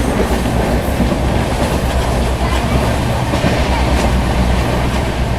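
Passenger train running at speed, heard from an open door or window: a steady loud rumble of wheels on rails with a few faint clicks from the rail joints.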